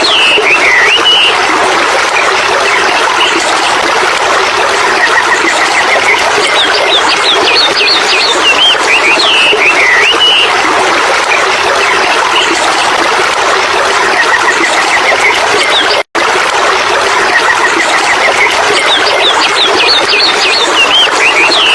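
Steady rushing water of a stream, with bird calls over it: bright chirps and a short trill that recur about every ten seconds. The sound drops out for an instant about 16 seconds in.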